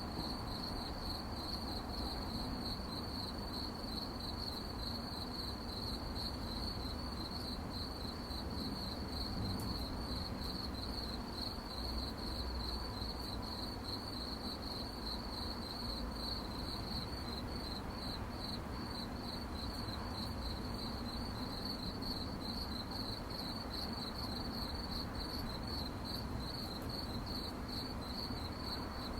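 Crickets chirping at night: a steady, rapid, high-pitched trilling chorus that never lets up, over a low background rumble.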